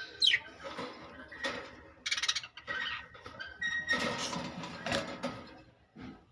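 Pet lovebirds chattering, with short chirps and a quick falling whistle near the start, mixed with gritty rasping and clicking bursts.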